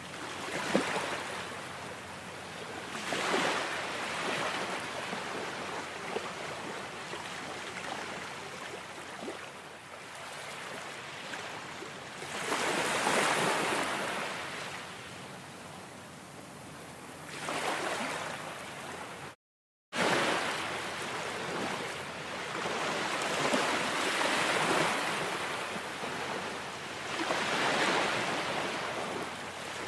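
Ocean surf: waves breaking and washing in over a steady hiss, swelling every few seconds. The sound cuts out completely for about half a second around two-thirds of the way through.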